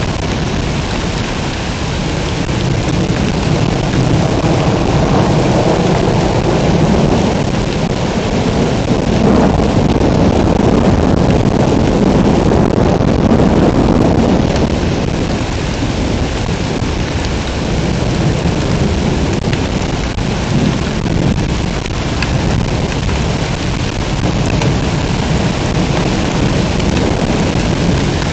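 Heavy rain pouring steadily in a thunderstorm, with a low rumble of thunder swelling and fading through the first half.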